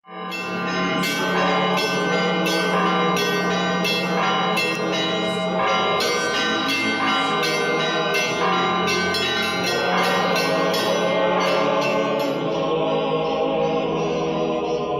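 Church bells ringing, struck in quick succession about twice a second; the strikes stop about three quarters of the way through and the bells ring on as they die away.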